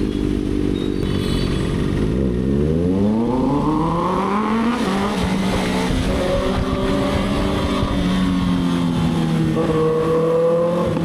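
Kawasaki ZX-6R inline-four engine running, its note rising steadily about two seconds in as the bike accelerates, then holding at high revs, with another short climb near the end.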